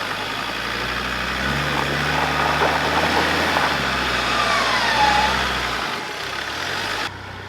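Off-road 4x4's engine working under load as it climbs a rocky step. The revs rise about a second and a half in and ease off near the end, with a few short knocks in the middle.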